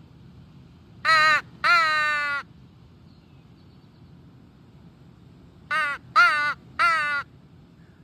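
Crow call blown by mouth without the throat rasp, giving caws: two about a second in, the second longer and dropping in pitch at its end, then three short ones about six seconds in.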